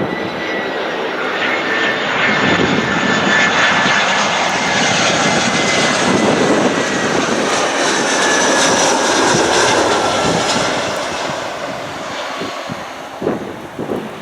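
Airbus A320-214's CFM56 turbofan engines as the jet comes in to land: a steady jet roar with a thin high whine that slowly falls in pitch. It swells to its loudest in the middle and fades away toward the end.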